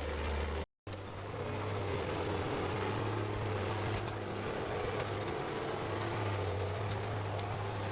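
A heavy forestry machine's engine running steadily, with a low hum under a rougher mid-range noise. The sound cuts out for a split second just under a second in, then resumes.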